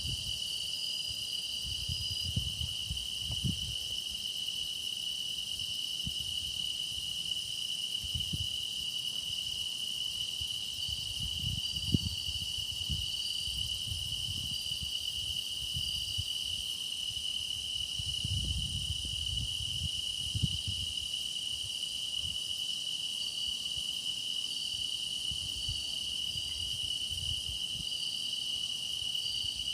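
Chorus of grass insects such as crickets, trilling steadily: one continuous high trill, with shorter chirps repeating above it. Faint low rumbles and a couple of brief soft knocks come and go underneath.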